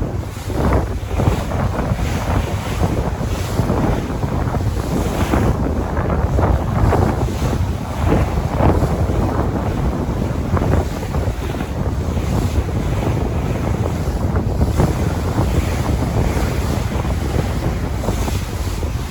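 Sea waves washing and swelling continuously, with wind buffeting the microphone and adding a heavy low rumble.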